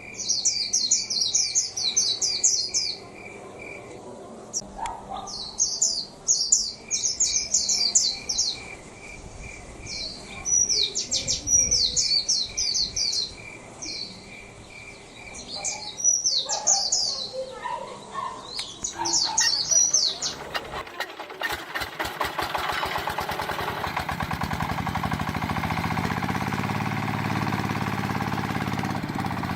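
Birds chirping in repeated quick bursts over a steady, regularly pulsing high tone. About two-thirds of the way through, a small motor starts, its ticking speeding up as it spins up, then runs steadily.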